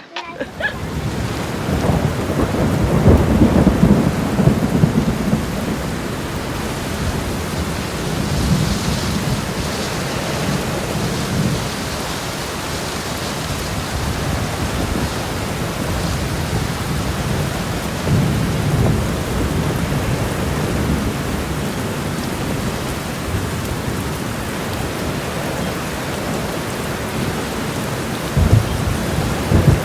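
Heavy, torrential rain pouring steadily, with deep rumbles rising and fading every so often.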